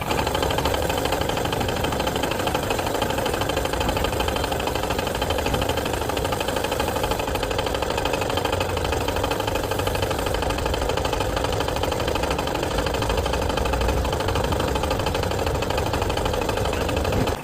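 Engine idling steadily with a fast, even clatter. It starts and cuts off abruptly.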